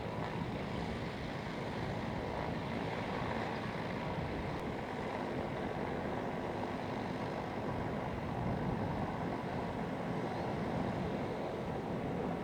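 Radial engine of a Cessna 195A running steadily, an even rumble.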